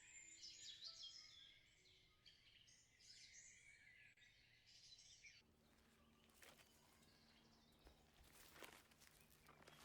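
Songbirds chirping and twittering for about five seconds, then an abrupt switch to a run of crackling rustles and snaps, as of steps or hands in leaf litter.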